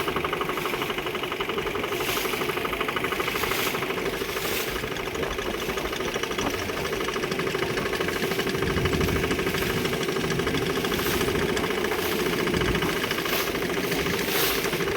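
Motorboat engine running steadily with an even, rapid chug.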